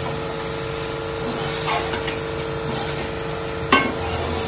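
Onions, tomatoes and green chillies sizzling in a stainless-steel pan while a metal spatula stirs and scrapes them, with one sharp knock of the spatula on the pan about three and a half seconds in. A steady hum runs underneath.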